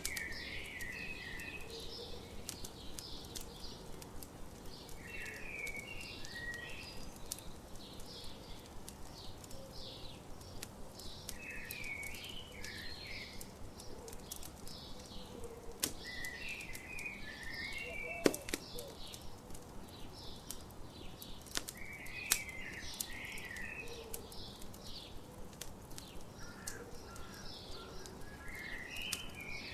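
Crackling campfire, with a steady stream of small sharp pops and a few louder ones, under a songbird that repeats a short chirping phrase about every five to six seconds.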